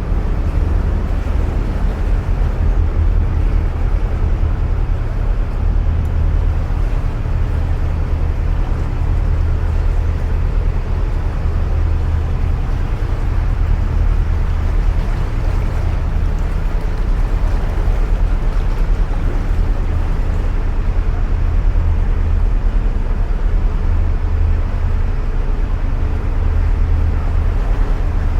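Narrowboat's inboard engine running steadily under way, a continuous low throb with a haze of noise above it, heard inside a long brick canal tunnel.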